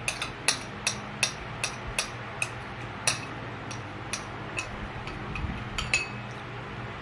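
A spoon clinking against a dish while scooping ice cream: sharp ringing clinks about every half second at first, then spaced further apart, with a last pair about six seconds in.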